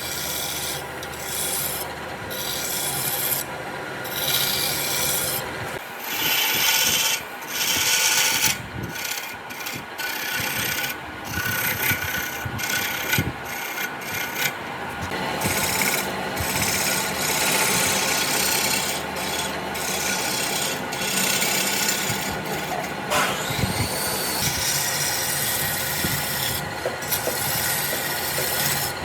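Abrasive rubbing on wood in irregular strokes, with short breaks in the first half and steadier towards the end.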